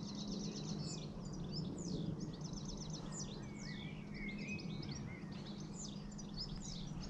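Songbirds singing: rapid high trills repeated again and again, mixed with quick down-slurred whistles and some lower warbling, over a steady low hum.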